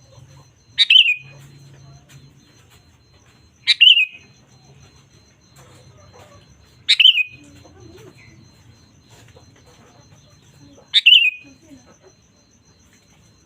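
Sooty-headed bulbul (kutilang) giving a short, loud call four times, a few seconds apart; each call starts high and drops quickly in pitch.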